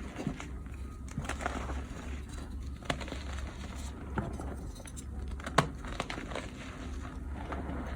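Blocks of dyed gym chalk, some of them reformed from pressed powder, being crushed: a crumbly crunching broken by sharp cracks every second or so, the loudest a little past halfway.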